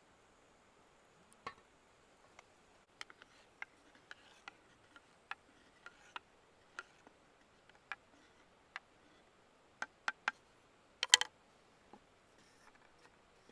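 Wood campfire crackling: scattered sharp pops and ticks at irregular intervals, with a quick burst of louder pops about eleven seconds in.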